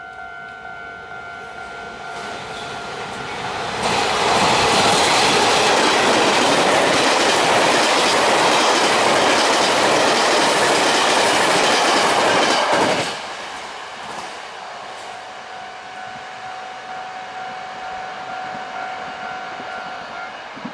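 Taiwan Railways Fu-Hsing express train passing at speed on the near track, its wheels loud on the rails. The noise builds over the first few seconds, turns loud and steady about four seconds in, and cuts off sharply about thirteen seconds in. A steady ringing tone is heard beneath it before and after the pass.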